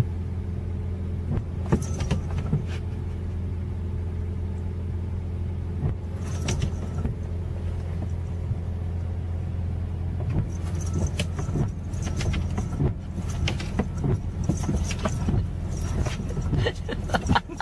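A car running, its steady low drone carrying on throughout, with scattered light knocks and clicks over it that come more often in the second half.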